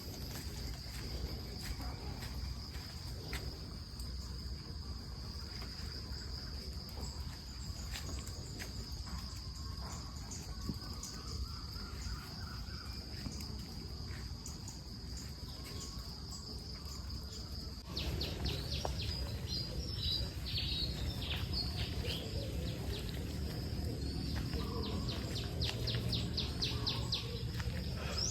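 A steady high-pitched insect drone with scattered bird chirps. About two-thirds of the way through, the drone gives way to fast trains of chirping pulses and the background grows louder.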